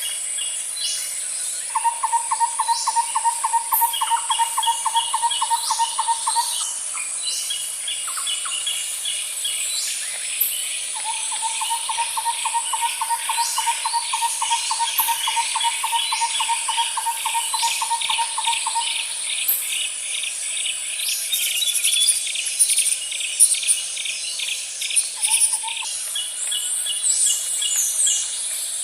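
Nature ambience of a steady high-pitched insect drone, with birds chirping in quick repeated series over it. Twice, a long, rapid, even-pitched low trill runs for several seconds.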